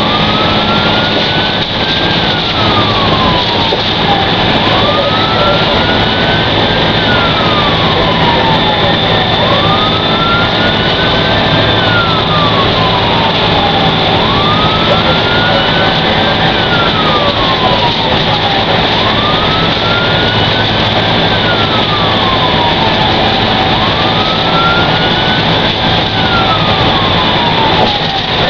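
Fire engine's siren in a slow wail, each cycle rising over about two seconds and falling over about two and a half, about six times, over the truck's steady engine drone.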